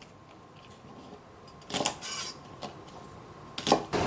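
Kitchen knife tapping on a cutting board while trimming the ends off snow peas, with a little rustle of the pods. There is a short cluster of clicks about two seconds in, a single tap after it, and a few more near the end.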